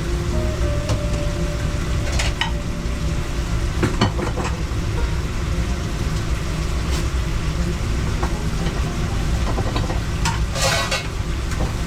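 Food frying and sizzling while it is stirred, with a few short metal clatters from the utensils, over a steady low rumble.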